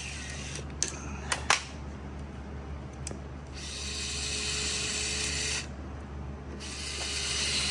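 A few sharp clicks, then a power drill running in two steady spells of about two seconds each, driving fasteners during the motor swap on the electric bike.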